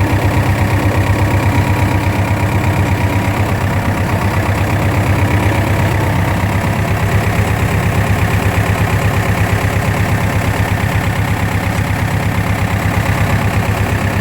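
Tractor engine running steadily, with a fast, even low pulsing.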